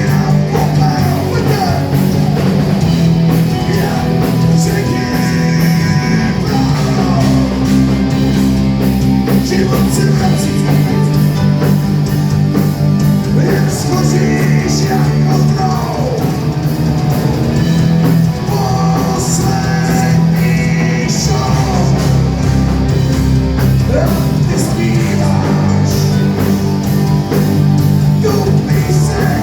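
Live rock band playing loudly: electric guitars, bass and drums in a steady beat, with singing over the top.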